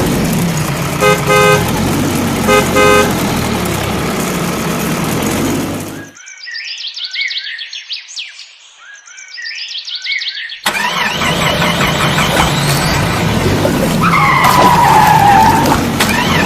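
Heavy vehicle engine running steadily, with two short horn toots about a second apart early on. The engine sound drops out for a few seconds, leaving only faint high-pitched sounds, then comes back with a falling whine near the end.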